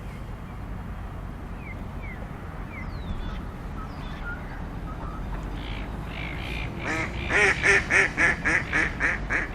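A duck quacking: a quick run of about eight loud quacks starting about seven seconds in. Before them there is a steady low rumble of wind on the microphone, with faint short chirps of small birds.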